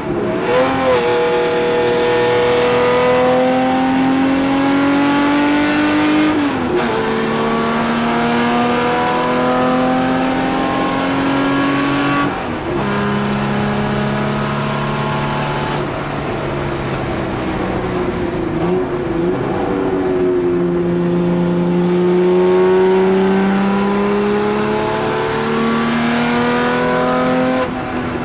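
In-car sound of a 1963 Jaguar XK-E race car's straight-six engine at racing speed, its note climbing steadily through each gear and dropping sharply at the upshifts, about six and twelve seconds in and again near the end. Around the middle the engine briefly lifts off and dips in pitch before pulling hard again.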